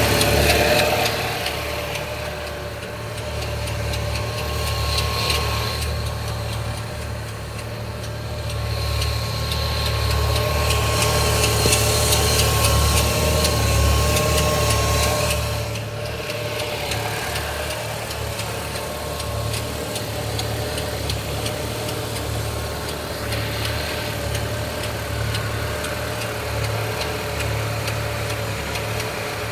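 Opel Z20NET 2.0 turbo four-cylinder engine idling with an irregular ticking from the timing chain. The ticking comes from a failing secondary timing chain tensioner, a sign that the chains, guides and tensioners are worn.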